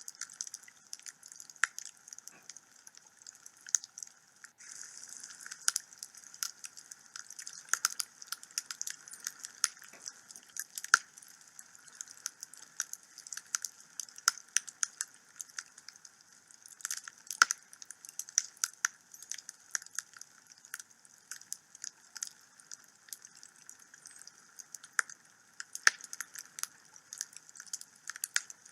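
Wood fire burning in a fireplace, crackling with irregular sharp pops and snaps over a faint steady hiss. A few pops are much louder than the rest.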